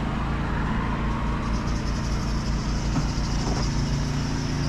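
Steady low hum of an idling engine, with a faint high whine joining in about a second and a half in.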